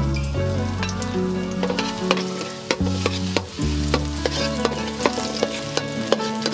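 Yellow noodles sizzling in a pan as they are stir-fried, with frequent short clicks from the stirring utensil against the pan. Background music with a moving bass line plays throughout.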